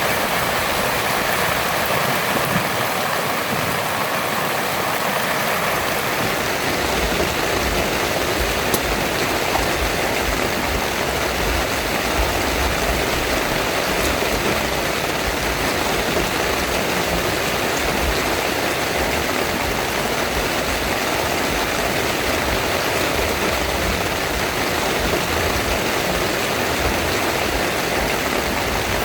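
Heavy rain pouring steadily on a tent, with a deeper low rumble joining about six seconds in.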